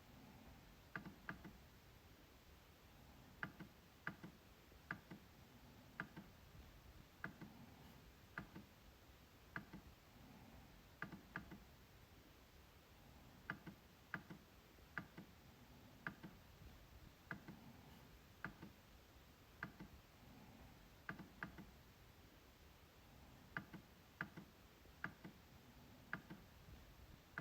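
MacBook trackpad clicking. The clicks come at an uneven pace, about one or two a second, often two in quick succession.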